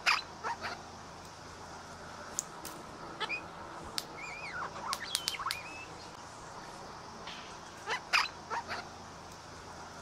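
Birds calling: clusters of short, harsh calls at the start and again about eight seconds in, with thinner rising and wavering whistled notes in between, over a steady background hiss.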